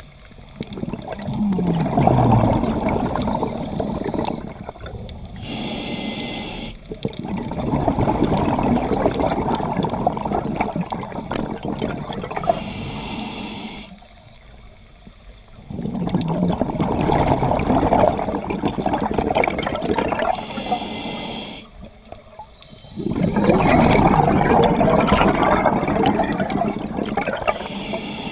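Scuba diver breathing underwater through a regulator: four long bursts of bubbling exhaust as the diver breathes out, with a short higher hiss in the gaps between them as the diver breathes in.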